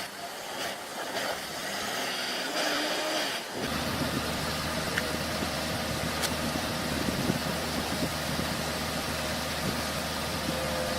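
Heavy diesel engine running steadily at a low idle. It cuts in abruptly about three and a half seconds in, after a thinner, hissy stretch with no engine rumble.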